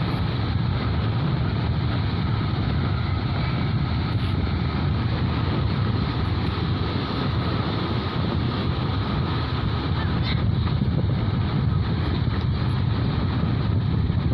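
Steady wind buffeting the microphone over the wash of surf on a beach.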